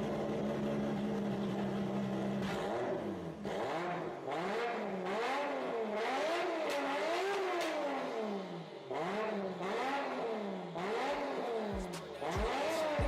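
Nissan Skyline GT-R R34 engine running steadily, then revved up and down repeatedly, its pitch rising and falling about once a second.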